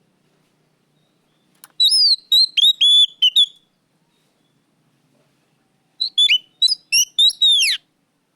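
Oriental magpie-robin (kacer) singing loudly: two phrases of quick, clear whistled notes, the first starting about two seconds in and the second near the end, the last note sliding down.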